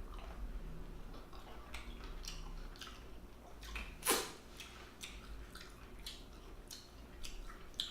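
Close-miked eating sounds: scattered wet mouth smacks and clicks, with one louder smack about four seconds in.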